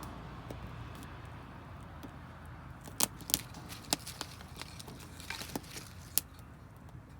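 Wood fire burning damp firewood, crackling with irregular sharp pops: a cluster about three to four seconds in and another single loud pop around six seconds, over a low steady rumble.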